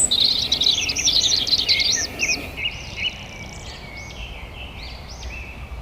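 Songbirds chirping and singing, several at once: a dense run of quick, high chirps in the first couple of seconds, then sparser, quieter calls.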